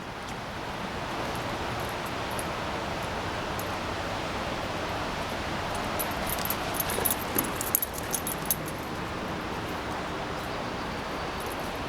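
Steady rushing noise of water in a flooded yard. About six seconds in comes a flurry of light metallic jingling, like a dog's collar tags, lasting two or three seconds.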